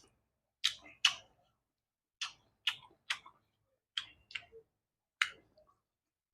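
Close-miked chewing of boiled long beans: a series of short, crisp crunches and mouth clicks, roughly two to three a second with short pauses, stopping about five and a half seconds in.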